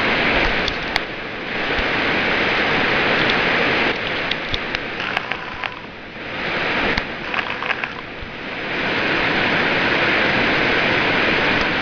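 Rushing floodwater of the Elbow River, a steady loud roar that swells and fades several times, with a few scattered clicks and knocks.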